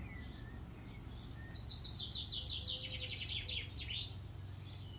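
A small songbird singing a rapid trill of about ten notes a second that falls in pitch over nearly three seconds and ends in a brief flourish.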